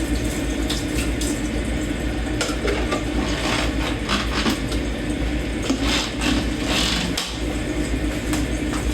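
Dishes being washed by hand in a kitchen sink: water splashing and running, with scattered sharp clinks of dishes and utensils, over a steady low hum.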